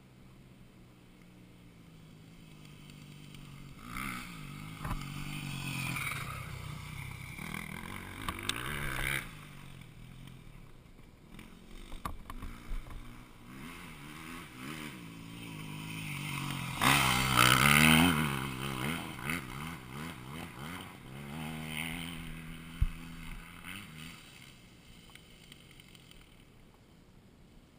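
Dirt bike engine revving up and down as it is ridden. It grows louder to a peak about two-thirds of the way through, then fades away.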